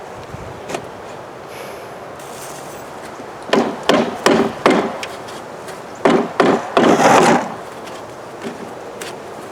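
Hard knocks and scraping on wooden beehive equipment. There are two clusters of quick strikes, one a few seconds in and another about six seconds in, and the second ends in a longer scrape.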